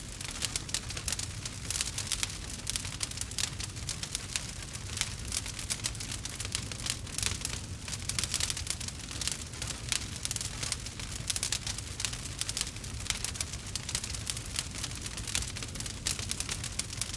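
Log fire crackling in a fireplace: a dense, continuous run of sharp snaps and pops over a low steady rumble.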